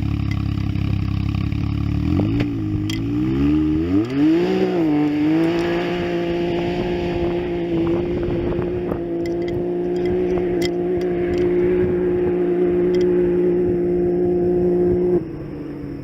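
Can-Am X3's turbocharged three-cylinder engine and exhaust idling, then revved up and down twice. It holds a steady higher rpm for about ten seconds and drops back off suddenly near the end.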